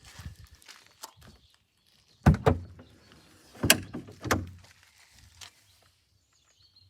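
Clunks and knocks from handling a car, with three louder knocks about two, three and a half and four and a half seconds in, followed by a faint low hum.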